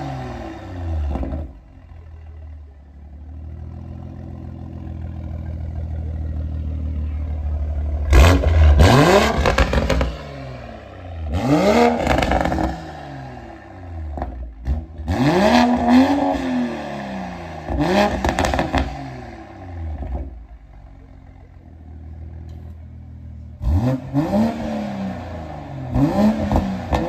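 BMW M340i's turbocharged straight-six running through a newly installed aftermarket exhaust: a steady engine note for several seconds, then a series of short rev blips, each rising and falling in pitch.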